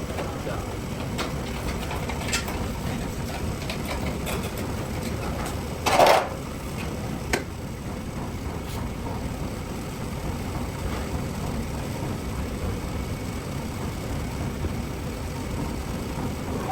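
Steady machinery drone in a metalworking shop, with one loud knock about six seconds in and a lighter click just after seven seconds.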